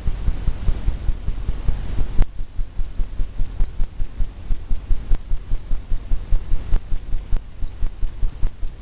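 Fan brush loaded with oil paint tapping against a stretched canvas, a steady run of dull low thumps about four a second.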